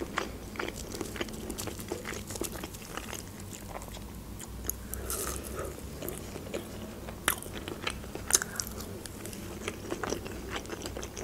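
Close-miked biting and chewing of McDonald's chicken nuggets, the breaded coating crunching in many small, irregular clicks.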